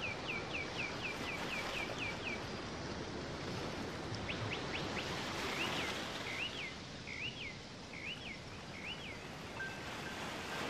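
A bird chirping over a steady hiss. It gives a fast run of about six high chirps a second that stops a couple of seconds in, a few quick notes around four seconds, then five slower looping notes about half a second apart. These are nature sounds within the relaxing background track.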